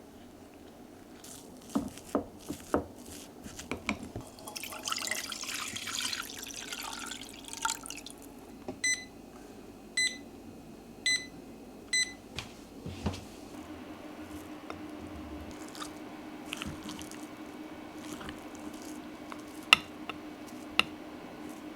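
Kitchen work sounds: a few clicks and knocks, then a stretch of running or dripping water. After that come four short electronic beeps about a second apart, and then a steady low hum of an appliance starting up, with two sharp clicks near the end.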